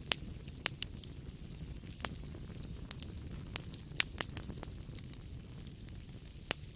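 Wood fire crackling in a fireplace: irregular sharp pops and snaps, a dozen or so, over a steady low rumble of the burning fire.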